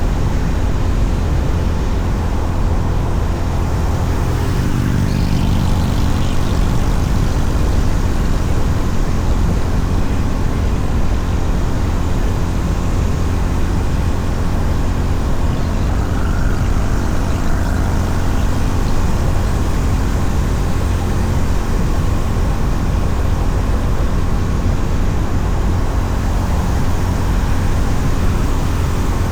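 Honda CB350RS single-cylinder engine running steadily while the motorcycle cruises, under a heavy, constant low rumble of wind and road noise on the microphone.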